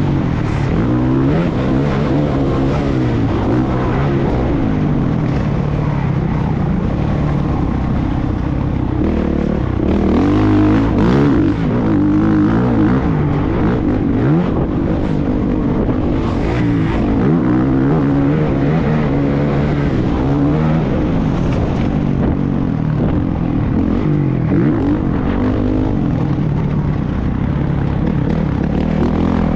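Motocross bike engine running hard, its pitch rising and falling over and over as it revs up and drops back through the gears.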